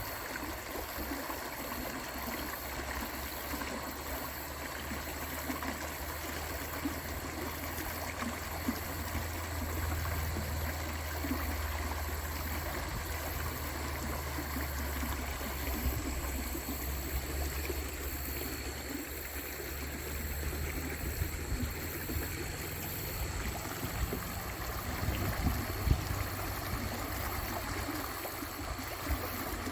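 Creek water rushing steadily over rocks, with a low rumble underneath through the middle stretch.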